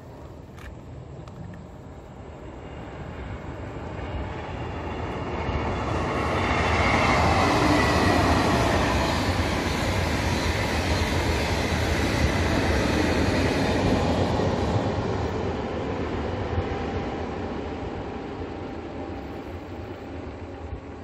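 KTX-Sancheon high-speed train passing by: a rushing noise that builds over several seconds, is loudest in the middle, then slowly fades away. A faint whine drops in pitch as the train goes past.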